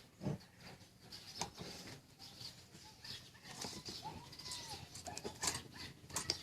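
Scattered light clicks and knocks, with short bird chirps and calls in the background.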